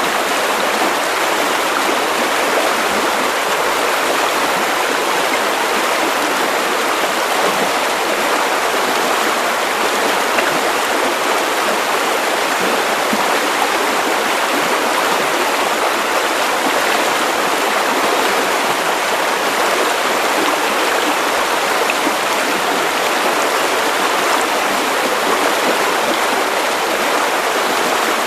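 Steady white noise for sleep: an even, unchanging hiss with little bass.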